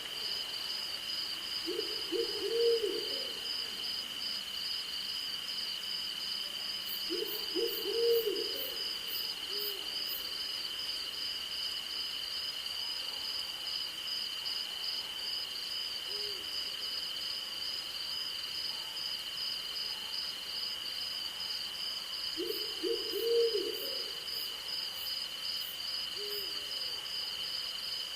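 An owl hooting in short quavering series three times, each about a second long, with a few softer single hoots between, over a steady shrill chorus of night insects, one of them pulsing rapidly.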